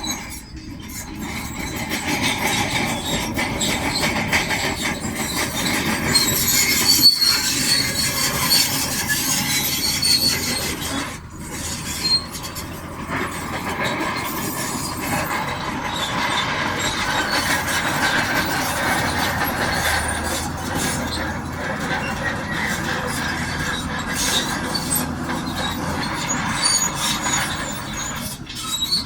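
Shantui DH17C2 crawler bulldozer working, its steel tracks squealing with high thin tones over the diesel and the grinding of moved stone.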